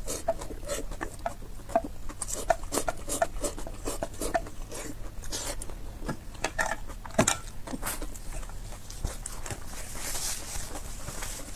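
Close-miked mouth sounds of eating noodles: irregular wet smacks and clicks of chewing. Near the end there is a soft papery rustle from a napkin wiping the mouth.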